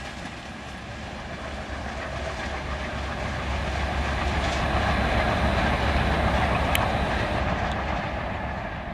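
Rajdhani Express of LHB coaches running on the rails at about 100 km/h: a steady rumble of wheels on track that grows to its loudest about six seconds in, then fades.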